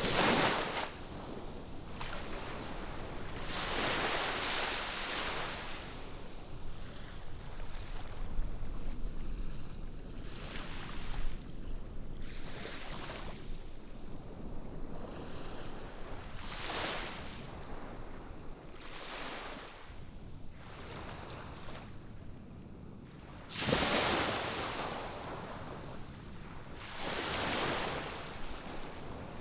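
Ocean waves breaking and washing up the shore, a swell of hiss every few seconds over a steady wash, the loudest one about four-fifths of the way through.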